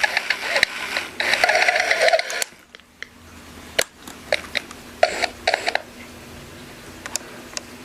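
Gemmy Pete the Repeat Parrot toy running: a loud, hissy, buzzing noise for about two and a half seconds, then a string of sharp mechanical clicks and taps.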